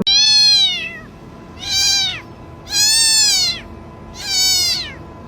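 A cat meowing four times, each meow rising then falling in pitch, with short pauses between.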